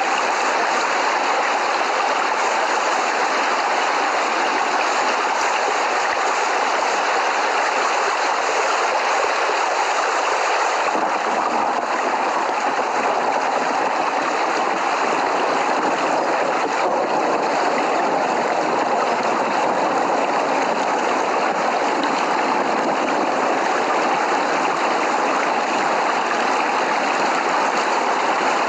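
Steady heavy rain, a continuous even hiss of falling water. About 11 seconds in the sound turns slightly fuller and deeper.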